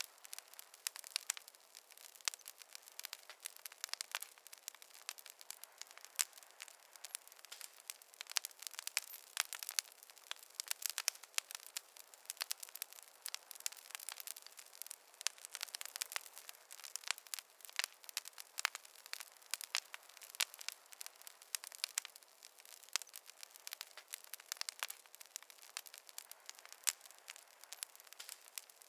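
Campfire crackling: a dense, irregular run of sharp pops and snaps over a soft hiss, with no low end.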